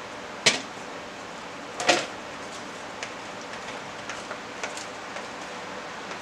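Handling sounds while mixing slime: a sharp knock about half a second in and another short clatter around two seconds in, then scattered light ticks, over a steady hiss.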